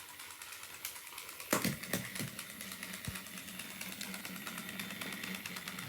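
Battery-powered rotor motors of a Hess 2006 toy helicopter running with a rapid, even whirring buzz, with a few light handling knocks about a second and a half in.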